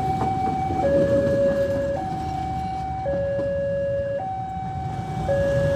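A two-tone warning siren alternating between a higher and a lower note, each held about a second, over a steady low rumble.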